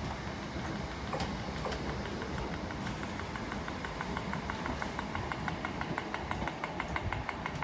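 ScotRail electric multiple unit moving slowly away along the track, a steady low rumble. A fast, even ticking comes in about halfway through.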